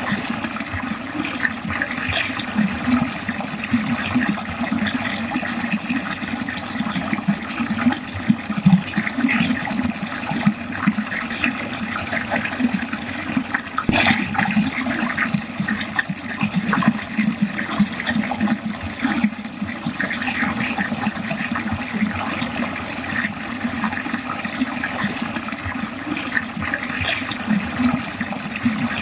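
Water running steadily down a drain, a continuous gurgling rush with small splashes, and one sharp click or drip about halfway through.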